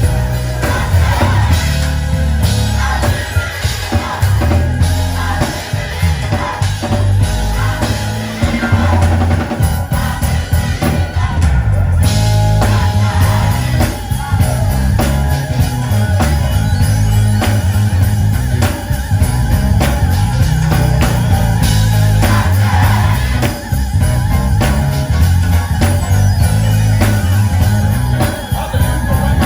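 Live gospel music: a band with a heavy bass line playing under voices singing.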